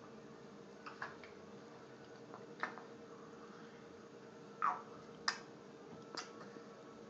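A spoon clicking and scraping against a yogurt container: about five short, separate clicks, the loudest two a little past the middle, over a faint steady hum.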